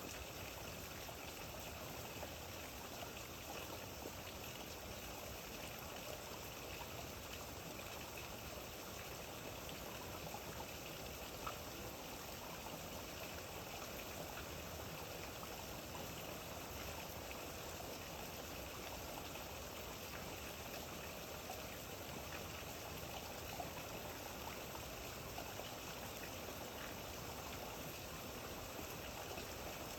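Steady rain falling, an even wash of water sound with faint scattered drop ticks.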